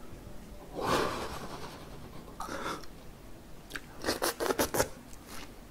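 Close-up mouth sounds of chewing and biting into battered sweet and sour pork, with a quick run of crunches about four seconds in.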